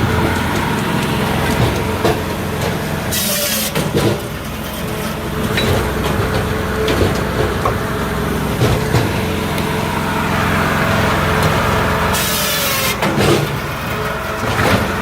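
Multitek 1620SS firewood processor running under its 44 hp diesel engine, a steady drone with scattered knocks and clatter of wood being cut and split. Two short bursts of high hiss come about three seconds in and again near the end.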